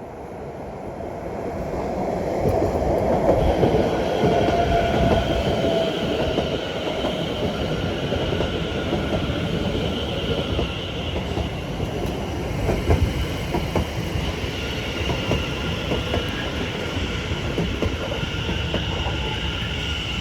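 A train running through the station: the rumble builds over the first few seconds and then holds steady, with wheels clicking over rail joints and a steady high-pitched whine above.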